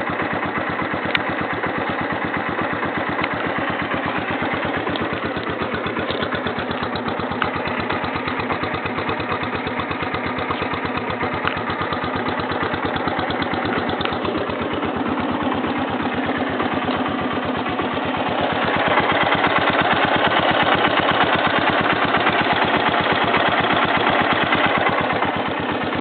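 1983 Honda ATC 200E Big Red's single-cylinder four-stroke engine idling after a cold start, with a steady, fast firing beat. About three quarters of the way through it gets louder and brighter.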